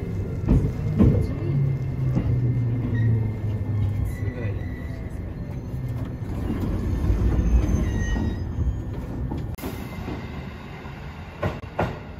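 Running sound of an E653 series 1100 electric express train, heard from inside the car as it moves slowly along a station platform: wheel and rail noise with a low steady hum from the Hitachi IGBT inverter drive and traction motors. A few sharp knocks come near the end.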